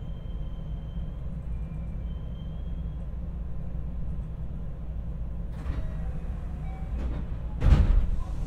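JR West 225 series electric train standing at a station platform: a steady low rumble from the car, with faint high thin squeals in the first few seconds as it comes to rest. About three-quarters of the way through comes a short loud burst of noise, typical of the sliding doors opening at the stop.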